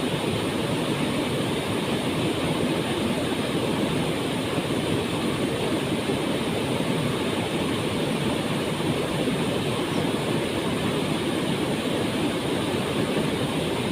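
Waterfall pouring steadily into its pool: an even, unbroken rush of water with a deep low rumble.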